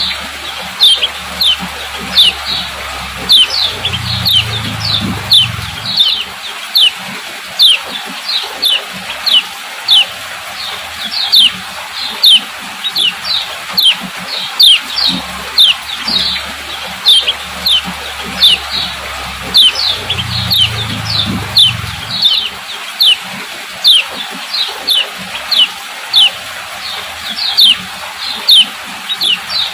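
Female common iora (yellow kecial) giving its sharp 'ciak ciak' call: short, falling chirps repeated about three times a second without pause. This is the female's call, used to stir male ioras into song. A low hum comes in twice, about four seconds in and again about twenty seconds in.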